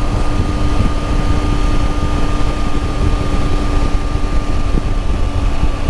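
Motorcycle at a steady cruise: heavy wind rush over the microphone with a steady engine drone from the Triumph Tiger 800's three-cylinder engine.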